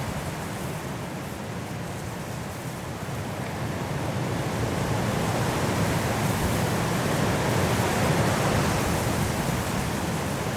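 High wind blowing through forest trees in a snowstorm, a steady rushing that swells into a stronger gust in the second half and eases slightly near the end.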